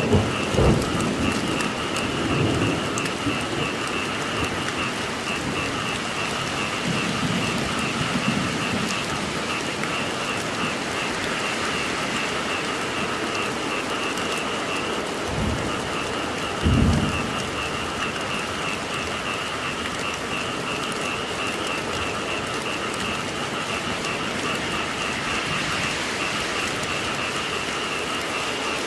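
Steady rain falling, with low rumbles of thunder near the start, about seven seconds in and again around sixteen seconds. A chorus of frogs calls in a steady pulsing drone through the rain.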